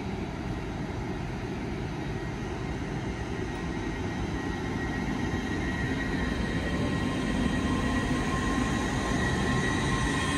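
Hitachi Class 800 bi-mode express train pulling away from a platform: a steady rumble that slowly grows louder, with a high steady whine coming in about halfway through.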